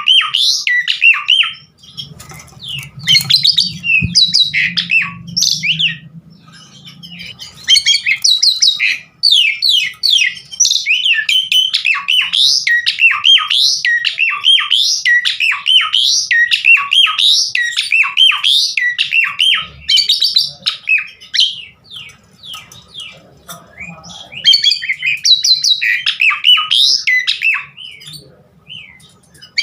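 Pied starling (jalak suren) singing loudly in a fast, varied stream of whistles, chatters and squawky phrases, full of mimicked notes, with brief pauses about a quarter of the way in and again about three quarters through.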